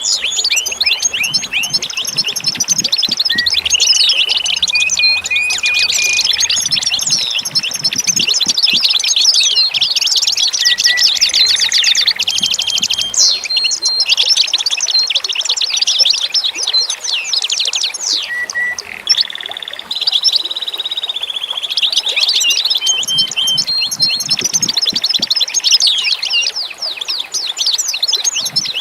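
A dense chorus of many songbirds chirping and trilling continuously, with calls overlapping throughout.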